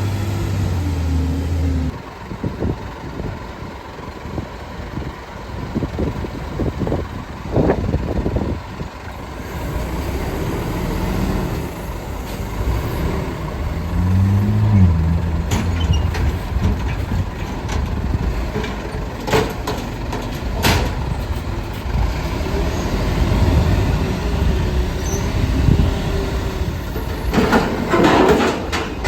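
Garbage truck at work: its diesel engine running and briefly revving up about halfway through, with scattered clanks and knocks, and a noisy hiss near the end.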